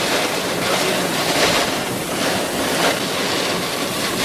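Severe thunderstorm winds of 55 mph or more with driving rain: a loud, steady rushing noise that swells in gusts, with wind buffeting the microphone.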